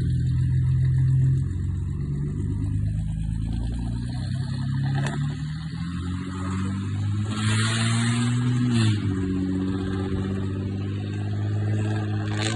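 Mercedes-Benz OM603 naturally aspirated straight-six diesel running through a straight-piped exhaust, its engine speed dipping about a second in, rising slowly and dropping again about two-thirds of the way through. A brief hiss of noise comes about seven seconds in, and the sound cuts off at the end.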